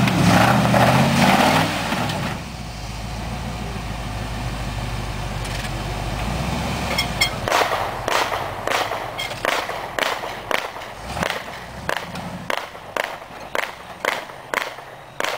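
Monster truck engine revving hard, then settling into a steady low run. From about halfway, a regular series of sharp bangs, about two a second, gradually getting fainter.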